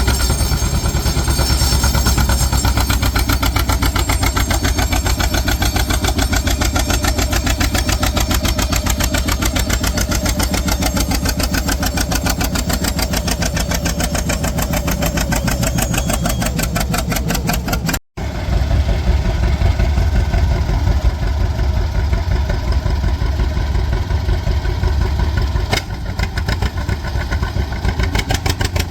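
Antique tractor engine running hard with a steady, even beat of exhaust pulses, typical of pulling a weighted stone boat. The sound drops out for an instant about two-thirds of the way through, then the engine carries on.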